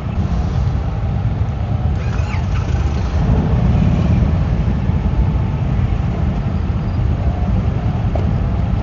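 Steady low vehicle rumble, with a brief high squeak about two seconds in.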